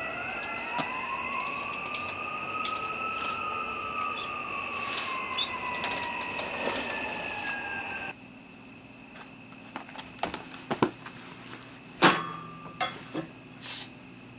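Eerie electronic tones, a steady high whine with slow sliding pitches rising and falling over it, that cut off abruptly about eight seconds in. After that come scattered faint clicks and a few sharp knocks, the loudest about twelve seconds in.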